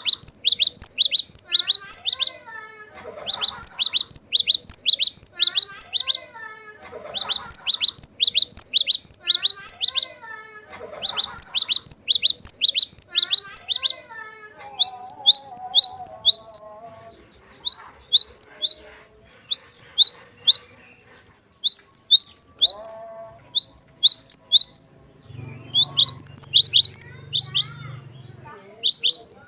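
Glatik batu (cinereous tit) singing: loud, rapid series of high, sharp notes, about three to four a second, in phrases of a few seconds with short pauses between them, the phrases getting shorter in the second half. Fainter, lower twittering runs underneath.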